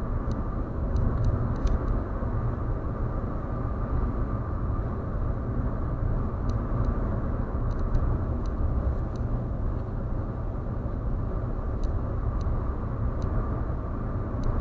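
Car driving at speed on an expressway: steady road and tyre noise with a deep rumble, a faint steady whine, and scattered light ticks.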